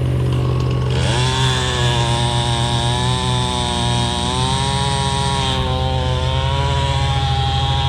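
Chainsaw revving up about a second in, then held at high speed with a slightly wavering pitch as it cuts, over a steady low engine drone.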